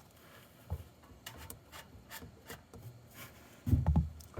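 Handling noise from working around the mower: a string of light clicks and scrapes, then a heavier dull knock near the end.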